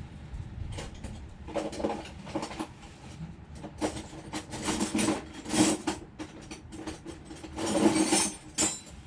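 Metal hand tools clinking, scraping and knocking on the engine while the thermostat housing is worked loose. The sounds come in irregular bunches, with the longest and loudest stretch near the end.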